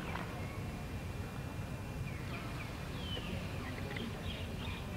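Birds chirping in short, high, falling notes, starting about two seconds in, over a steady low rumble of outdoor background noise.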